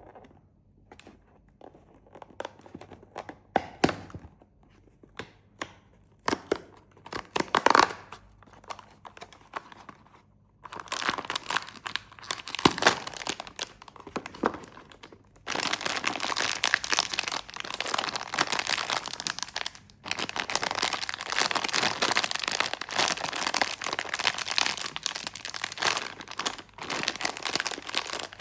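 Snack wrappers being handled and torn open: a few scattered crinkles at first, then long stretches of dense, continuous crinkling and tearing from about a third of the way in.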